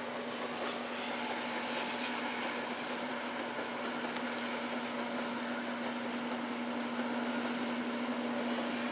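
Iron ore freight train's wagons rolling along the track: a steady noise of steel wheels on rail with a constant hum and a few faint clicks, growing slightly louder near the end.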